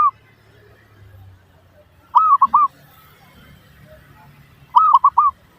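Zebra dove (perkutut) cooing: short phrases of three quick, arching coos, repeated about every two and a half seconds.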